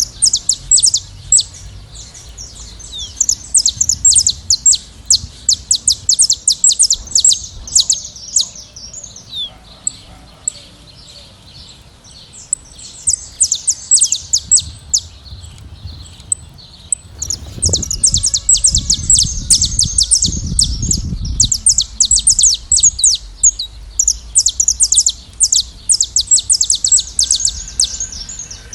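A flock of saffron finches chirping and singing together: a dense stream of rapid, high chirps that thins out for a few seconds near the middle. A low rumble comes in for a few seconds about two thirds of the way through.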